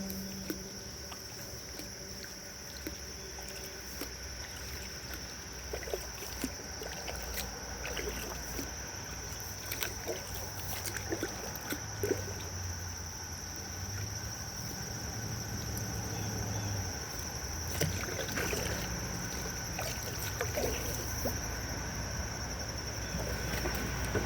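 Kayak paddle strokes in the water: repeated small dips, splashes and drips.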